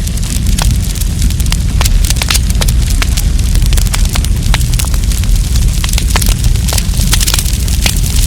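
Wood campfire crackling: many irregular sharp pops and snaps over a steady low rumble of the burning fire.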